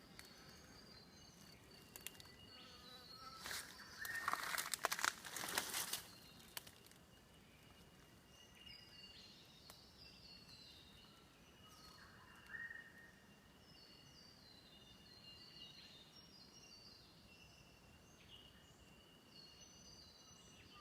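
Rainforest ambience: a steady high insect drone, with a bird repeating short calls of stepped falling notes through the second half. About four seconds in, a few seconds of louder rustling and knocking noise.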